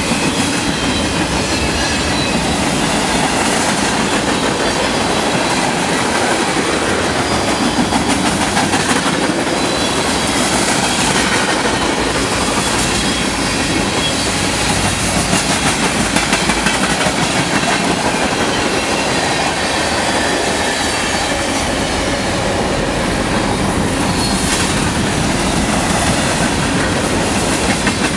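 A mixed freight train's cars rolling past at close range: a loud, steady rumble and clatter of steel wheels on rail.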